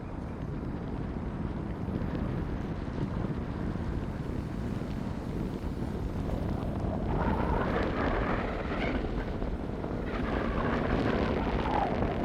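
Wind rumbling on the microphone, with a louder unidentified sound swelling twice in the second half.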